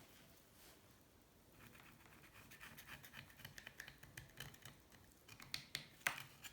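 Faint, irregular scraping and scratching of a small hand tool digging caked gunk of oil, sand and salt-water deposits out of a Honda C70's aluminium engine case half. It starts about a second and a half in, with a few sharper clicks near the end.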